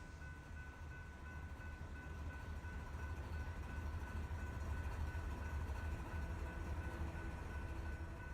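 Loaded freight train cars rolling past on the rails: a low, steady rumble that grows louder toward the middle and eases off near the end.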